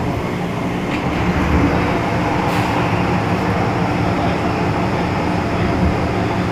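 MTR M-Train electric multiple unit running along the track, heard from inside the carriage: a steady rumble of wheels and running gear with a faint steady hum, and a light tick or two.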